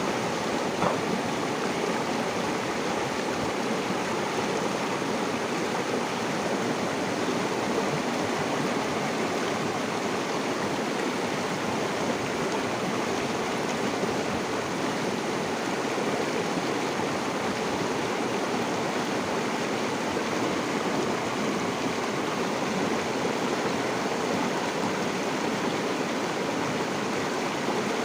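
River water flowing steadily over rocks, an even rushing and babbling without pause.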